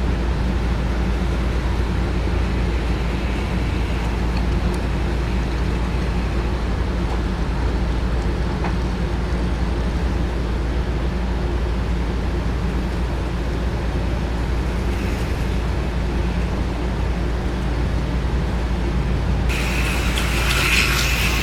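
Small electric motors and wheels of an HO model train and slot cars running on a layout: a steady low hum with a light whir. Near the end a louder, higher rattling whir sets in suddenly.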